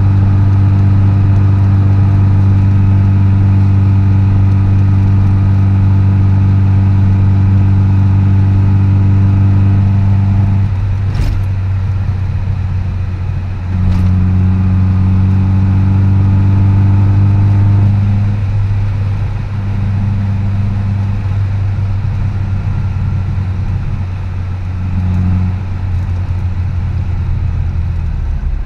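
Austin Mini's 998 cc A-series four-cylinder engine, fitted with a full stainless exhaust and K&N cone air filter, running steadily at a slow cruise, heard from inside the car. About a third of the way through the note breaks and drops, with two sharp clicks a few seconds apart, then settles lower and eases off again later.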